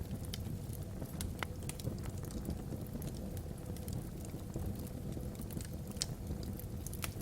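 Log fire in a fireplace crackling, with irregular sharp pops, a few louder ones near the end, over a steady low rumble of the burning and wind across the chimney.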